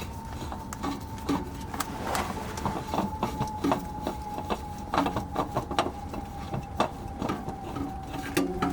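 Scattered clicks and light knocks of an oil filter and parts being handled, over a faint steady whine that slowly drops in pitch.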